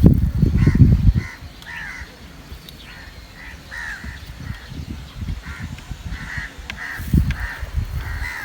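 Crow cawing repeatedly, about twice a second, in short calls. A loud low rumble covers the first second.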